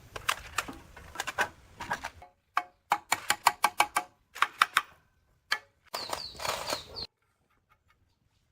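Irregular runs of sharp taps or clicks, several a second, like tool work on a part. There is a denser rattle just before they stop abruptly about seven seconds in.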